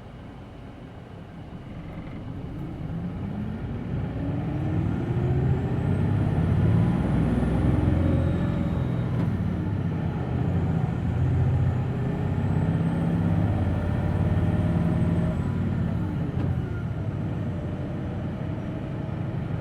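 Hino Blue Ribbon City Hybrid diesel-electric city bus heard from inside, its engine pulling hard and rising in pitch as the bus accelerates, then doing so again. A faint high whine rises and falls twice.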